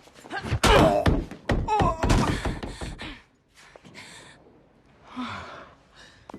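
A quick series of heavy thuds and hits mixed with short grunts, then a few softer noisy swishes.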